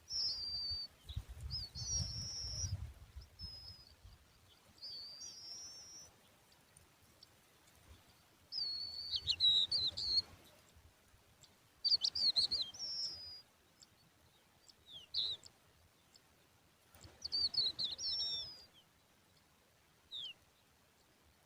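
Lark chicks calling in bouts of high, quick, wavering chirps separated by short pauses, with a few single short notes between bouts. A low rumble sounds under the first bout.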